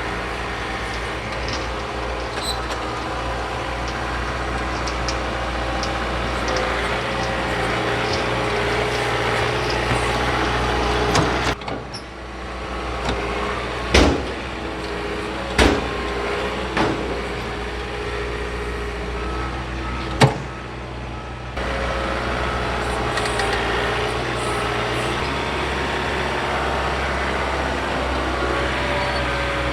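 John Deere 4052R compact tractor's diesel engine running steadily at a constant speed while its Gannon box blade knocks down dirt piles. Three sharp knocks come in the middle stretch.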